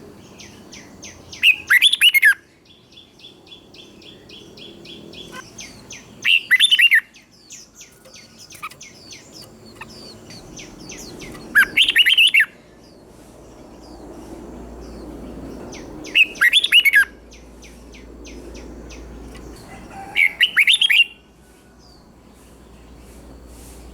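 Red-whiskered bulbul singing: five short, loud, warbling phrases about four to five seconds apart, with fainter chirps and trills between them.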